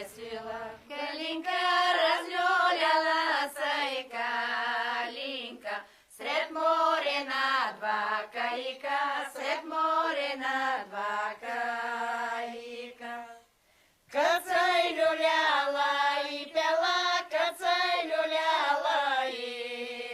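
Unaccompanied chant-like singing: long sung phrases with a wavering pitch, and a short break about thirteen and a half seconds in.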